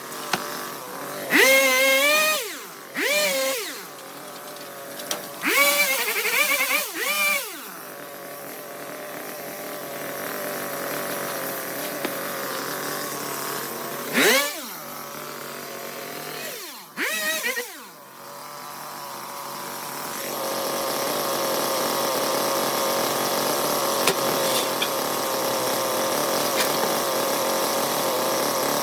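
Small petrol engine of a handheld garden power tool, revved up and let back down in several short bursts, then held at a steady high speed for the last third.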